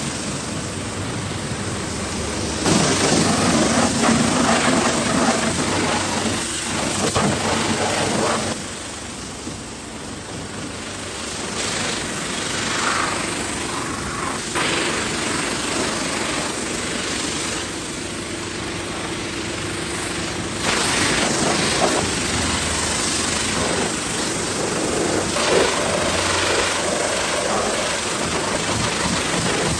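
Car wash noise: a loud spraying hiss that starts and stops abruptly several times, over a steady mechanical hum.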